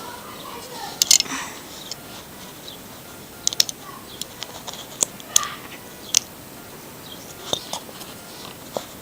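LEGO plastic bricks clicking as they are handled and pressed together: a dozen or so sharp plastic clicks at irregular intervals.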